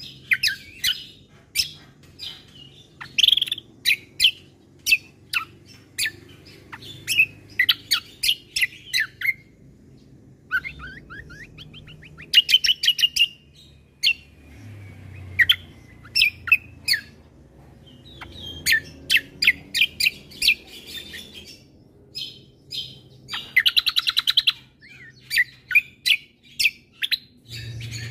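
Kecial kombo (cucak kombo) songbird singing: phrases of sharp, rapid chirps and quick trills, separated by short pauses.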